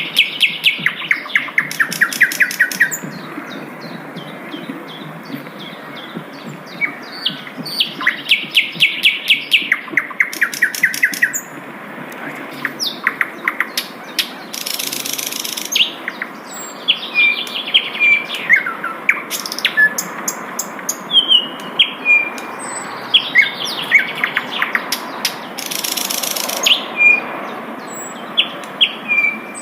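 A sikatan londo flycatcher singing, mixing fast rattling trills with short whistled and sliding notes. Two brief hissy bursts come in partway through and near the end.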